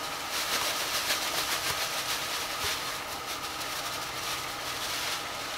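Browned beef cubes and diced onion sizzling and crackling in oil in a steel pot on a wood stove, with a plastic bag rustling as the onion is shaken in.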